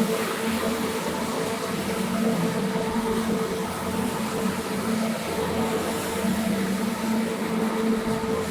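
A carpet-cleaning machine running steadily: a motor hum with a constant wash of noise over it.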